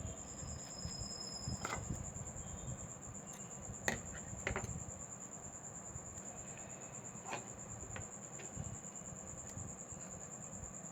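A few sharp clicks and taps of small tools and parts being handled during a smartphone display repair, over a steady high-pitched whine.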